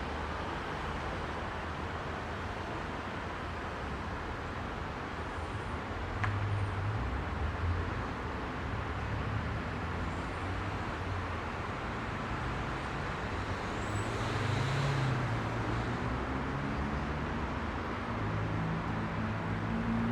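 Heavy rush-hour city road traffic: a steady wash of car, bus and truck engines and tyre noise, with engine hum swelling and fading as vehicles pass.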